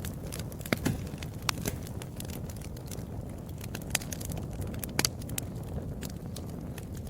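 Wood fire burning with a steady low rumble and irregular sharp crackles and pops, the loudest about a second in and again around five seconds in.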